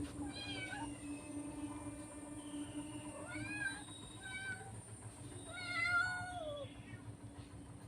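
Cat meowing four times, short calls early on and a longer, louder meow about six seconds in, over a steady low hum.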